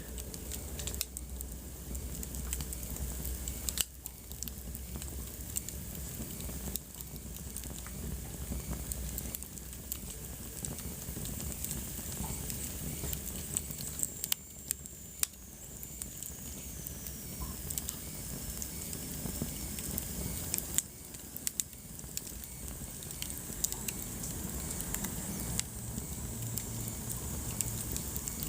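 Wood fire burning in a fireplace: a steady low hiss and rumble of flames with constant small crackles and a few louder pops.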